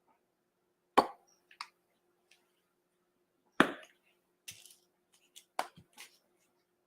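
Clicks and knocks of paint bottles and cups being handled and set down on a work table. Two louder knocks come about one second and three and a half seconds in, followed by several lighter clicks.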